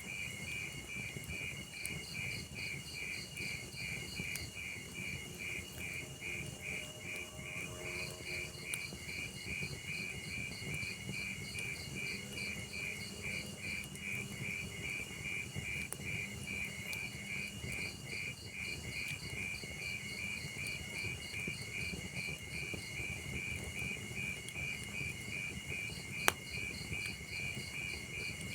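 Crickets chirping in a steady, even pulse over the low rush and scattered crackle of a burning wood fire, with one sharp pop from the fire near the end.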